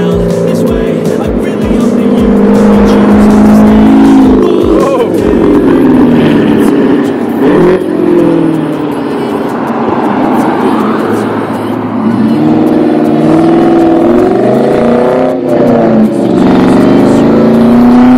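Car engines revving, the pitch climbing and falling several times.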